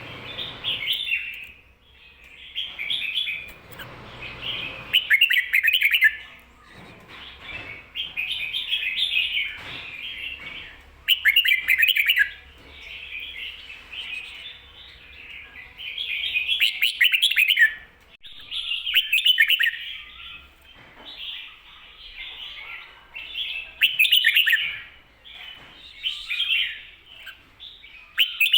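Red-whiskered bulbul singing: short, loud warbling phrases repeated every couple of seconds, in the doubled song style that Thai keepers call "bern".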